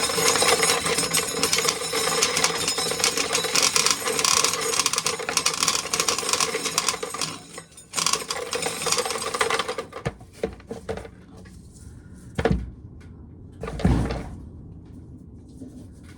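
Corn sheller working ears of corn with a dense, steady rattle, stopping about ten seconds in. Then two loud bangs as the wind smacks the loose corn crib doors.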